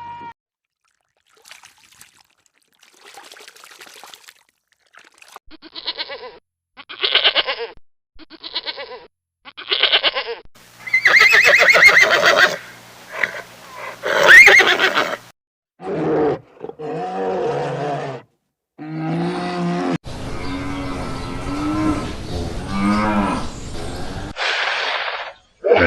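A sequence of separate animal calls from different clips, farm-animal type: four short calls, then a loud drawn-out call, then several lower, longer calls.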